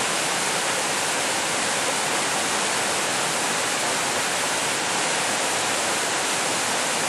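Steady rushing noise of flowing water, like a waterfall or fast stream, holding even throughout.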